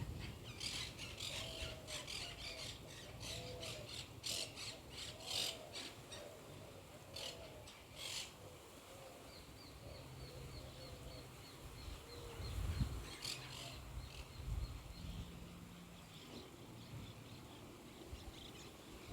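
Birds giving a rapid series of harsh squawking calls for about the first eight seconds, over a lower call that repeats in short swoops. After that the calls thin out, leaving a faint steady high tone and a couple of brief low rumbles.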